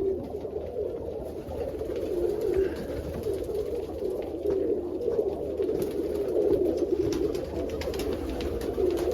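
Many domestic pigeons cooing together in a coop, a continuous overlapping murmur, with scattered light clicks over it.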